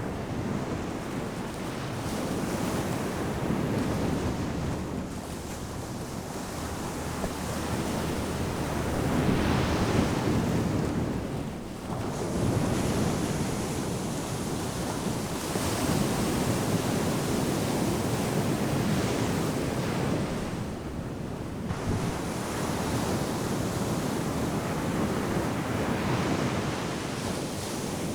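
Ocean surf breaking on a sandy beach: a continuous wash that swells and falls back as successive waves come in, with a steady rumble underneath and wind buffeting the microphone.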